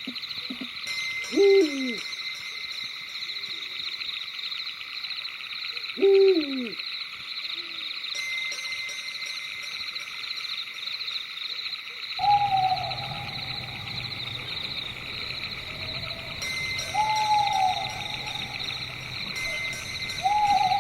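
Night-forest ambience: a steady, high, pulsing chorus of night animals under five owl hoots. The first two hoots are short and drop steeply in pitch. About halfway through the background shifts, and three longer hoots follow that hold a level pitch.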